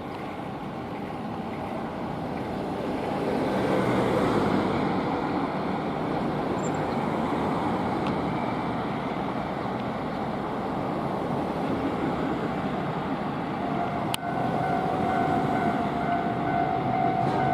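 Electric train passing over a level crossing: a steady rumble of wheels on rails that swells about four seconds in and stays loud. Near the end a sharp click is followed by a steady high tone.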